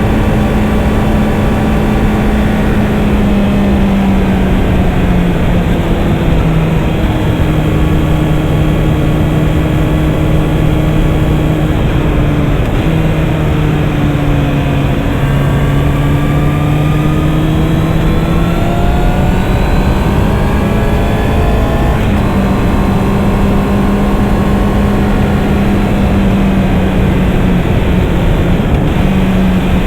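Honda CB650R's 649 cc inline-four engine running at cruising speed under a constant rush of wind and road noise. Its pitch sinks about five seconds in as the throttle eases, holds lower, then climbs steadily back up about two-thirds of the way through.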